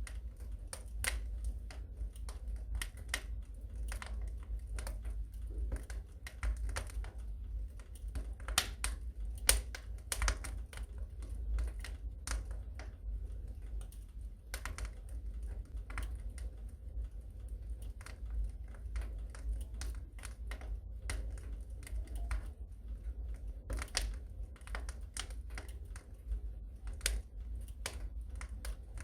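Wood fire crackling in a fireplace: irregular sharp pops and snaps, several a second and uneven in strength, over a steady low rumble.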